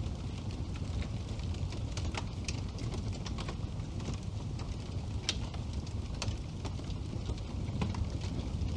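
Wood fire burning in a fireplace: a steady low rumble of the flames with irregular sharp crackles and pops, a few each second.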